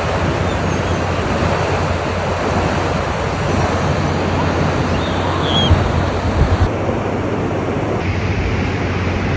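Ocean surf washing onto a beach, a steady rush of waves with some wind on the microphone.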